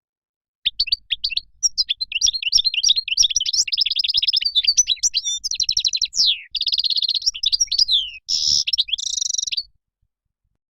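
European goldfinch singing: a fast, continuous twittering song of rapid trills, chirps and buzzy notes, starting just under a second in and cutting off about a second before the end.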